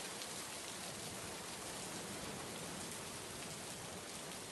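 Heavy rain falling steadily on a river and the riverbank.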